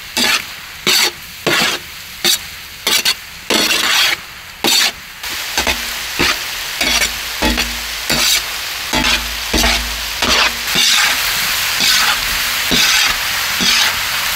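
Masala-marinated prawns sizzling in oil on a tawa, stirred with a metal spatula that strikes and scrapes the pan over and over.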